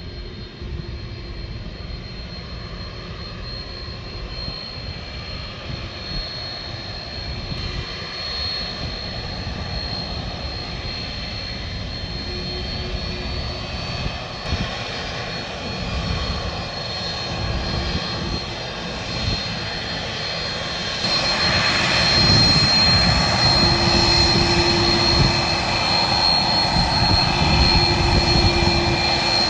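Jet airliner engines heard from the ground: a steady rushing noise with a high whine that grows gradually louder, then steps up sharply about two-thirds of the way in.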